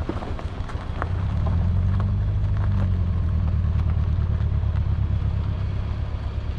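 Car engine running low and steady as the car creeps along a gravel road, louder from about a second and a half in, with a few sharp clicks.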